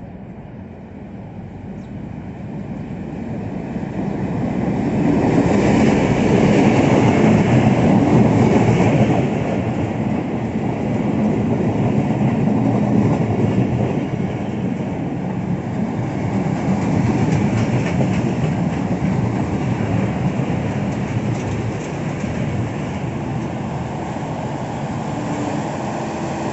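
Diesel-hauled passenger train arriving and running past along the platform. The locomotive's engine and wheels grow steadily louder over the first five or six seconds, then the coaches roll by in a continuous rumble that eases off slowly.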